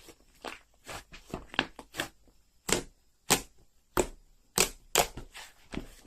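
Slime being squished and pressed by hand, popping trapped air in sharp, irregular clicks and snaps, about two a second.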